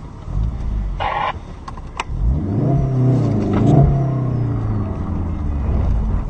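Car engine revving up and back down over steady road rumble, with a short tonal blast about a second in and a sharp click about two seconds in.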